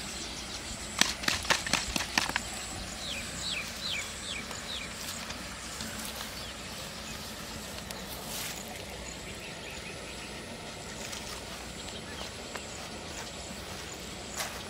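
A quick cluster of sharp clicks and crackles about a second in, then a bird calling with about five short falling chirps, over a steady outdoor hiss.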